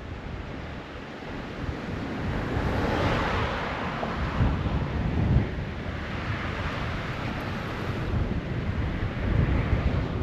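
Gusty wind buffeting the camera microphone: a low rumble under a rushing hiss that swells with each gust, about three seconds in and again later.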